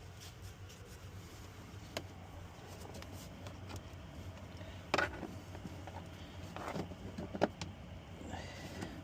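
A few sharp clicks and knocks of parts being handled during reassembly of a truck cab's interior, the loudest about five seconds in, over a steady low hum.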